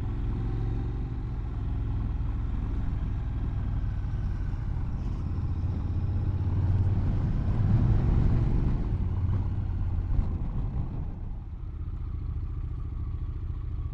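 Motorcycle engine running under way, a steady drone that gets louder for a few seconds about halfway through and eases off near the end.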